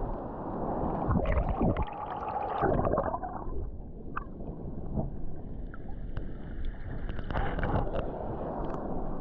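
Rock-pool water sloshing and gurgling close around a GoPro in its housing as a swimmer is pushed by the surge, coming in irregular louder rushes about a second in and again near the end.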